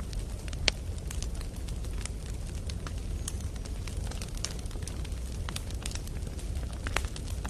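Campfire of burning firewood crackling, with irregular sharp pops, the loudest just under a second in and another near the end, over a steady low rumble.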